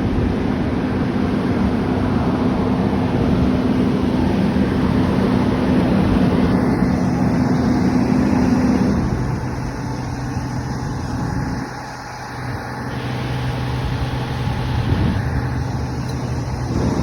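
Fire truck's diesel engine running steadily, its hum dropping lower about nine seconds in, with a brief dip in loudness a few seconds later.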